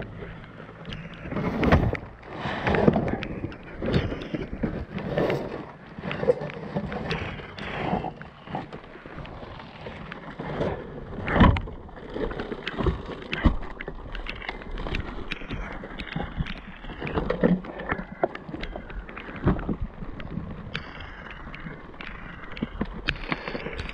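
Irregular knocks, clunks and rustling of scrap being handled, over a steady noisy hiss. All of it is muffled and distorted by a water-logged GoPro microphone.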